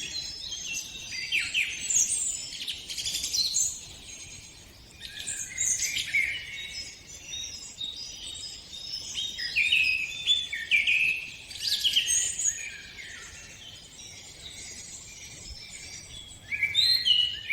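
A chorus of several forest birds singing together: quick chirps, trills and short gliding notes overlapping one another, coming in busy bursts with briefer lulls between them.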